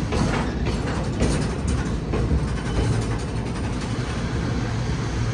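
Train running on the tracks at a station: a steady low rumble with scattered clicks and knocks in the first couple of seconds, then a steady low hum.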